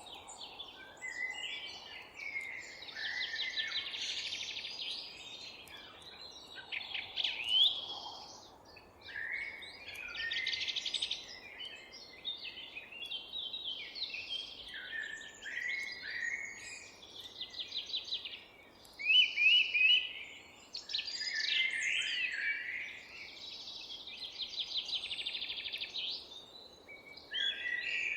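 Several songbirds singing and calling in quick, overlapping phrases of chirps and trills, over faint steady background noise.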